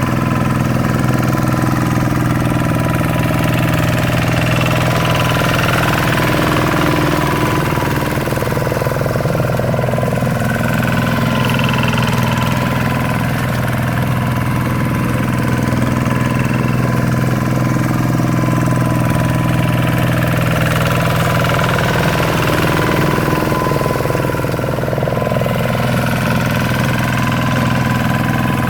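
Single-cylinder diesel engine of an RV 125-2 hand tractor, running steadily at an even speed.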